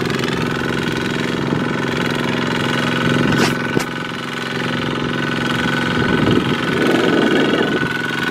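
Single-cylinder diesel engine of a Kubota walking tractor running steadily, with two sharp clicks about three and a half seconds in.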